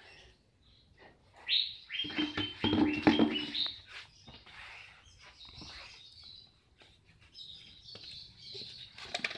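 A bird chirping in a quick run of short, high calls about two seconds in, then fainter chirps near the end.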